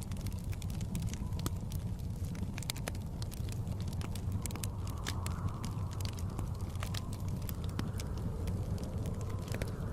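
Wood fire crackling with frequent sharp pops over a steady low rumble of blizzard wind that swells gently now and then.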